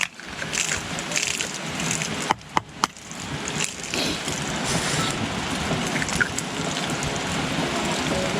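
Steady hiss of heavy rain on tent fabric, with three sharp clicks of tableware a little over two seconds in.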